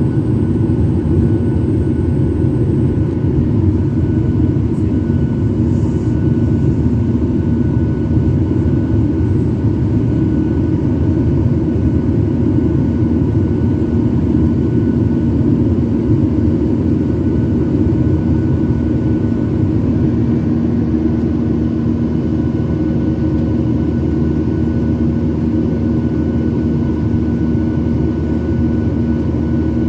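Steady drone inside a jet airliner's passenger cabin in flight: engine and airflow noise, a loud low rumble with a few faint steady tones.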